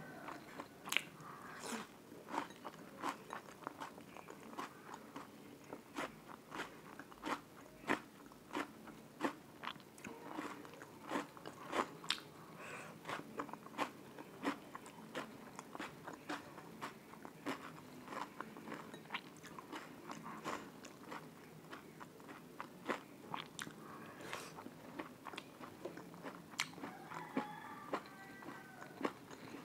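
Close-miked eating of puri and potato sabji: chewing and lip-smacking, with many short wet mouth clicks several times a second.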